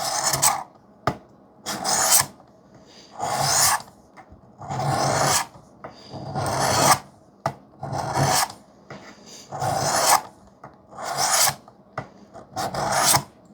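A wetted 400-grit stone on a Work Sharp guided sharpening system scraping along the edge of a 3V steel knife blade, in nine rasping strokes about a second and a half apart.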